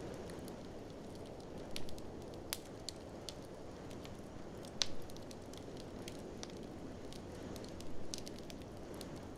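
Wood fire in a fireplace crackling, with scattered sharp pops, the loudest about five seconds in, over a steady low rushing noise.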